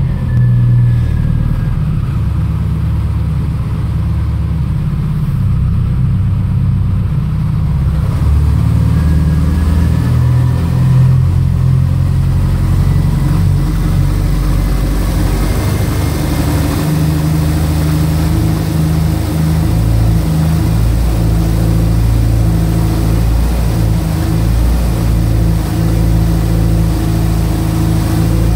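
A 2005 Subaru STI's turbocharged flat-four, freshly rebuilt, running steadily at idle just after its first start. It breathes through equal-length headers and a Borla cat-back exhaust.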